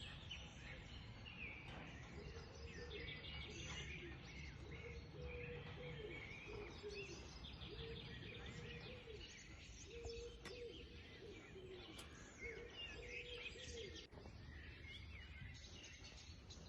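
Small birds chirping and twittering faintly over a steady low background rumble, with a repeated short lower-pitched call.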